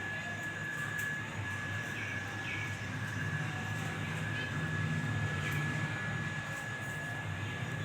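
Steady mechanical hum with a constant high whine. A few faint, short downward chirps from pet finches sound over it, about two seconds in and again past the middle.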